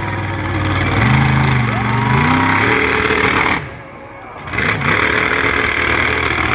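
Monster truck engine revving, its pitch rising and falling. It drops off briefly about three and a half seconds in, then picks up again.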